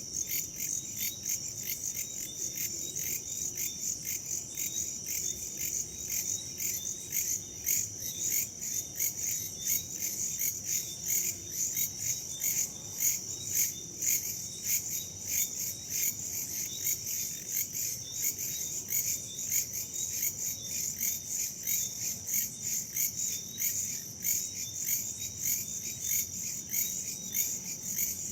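Crickets and other insects chirping in a dense, rapidly pulsing chorus that never lets up, high-pitched, over a faint low rush of wind.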